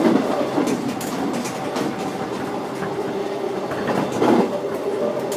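Interior running noise of an Alstom X'Trapolis electric suburban train in motion: a steady rumble of wheels on track, with a faint steady hum coming in about two seconds in.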